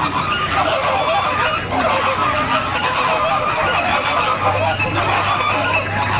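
A flock of flamingos calling, many overlapping calls at once in a dense, continuous chatter.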